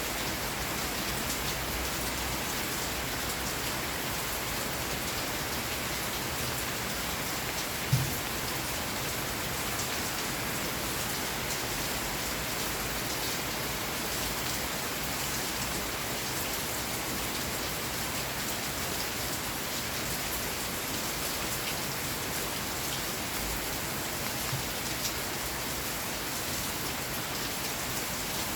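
Steady rain falling, an even dense hiss of drops, with one short sharp knock about a third of the way through.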